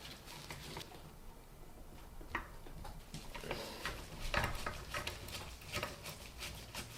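Scattered light clicks and scratchy scrapes from handwork with a screwdriver and small fan parts, coming more often in the second half.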